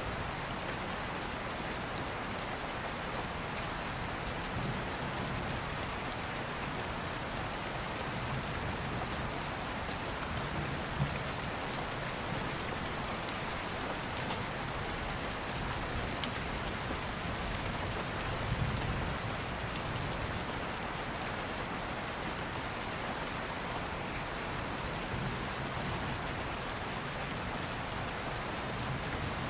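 Steady rain falling, with low rumbles of distant thunder swelling up now and then, and a few sharp crackling pops from an open wood fire.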